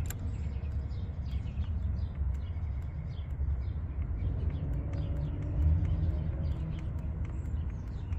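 Small birds chirping in quick, scattered calls over a steady low rumble.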